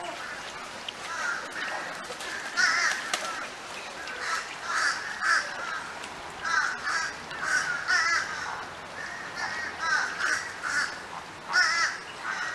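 A flock of flamingos calling: many short, nasal honks, overlapping and repeated in quick clusters about every second.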